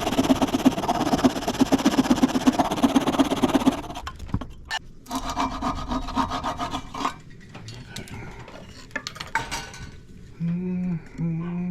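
Rapid rasping strokes on a wooden dowel, shaping its end to a point, in two bouts: a long one at the start and a shorter one a few seconds later. Near the end a rooster crows.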